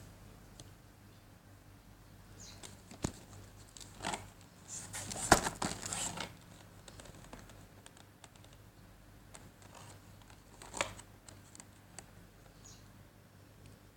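Packaging of a model airliner being handled: a stretch of rustling and crinkling a little after four seconds in, with a few sharp clicks and taps scattered through.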